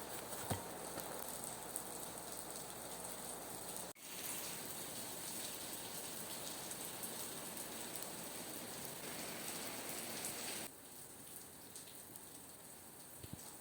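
Steady rain falling, an even hiss. It breaks off for an instant about four seconds in, then drops to a quieter rain about eleven seconds in.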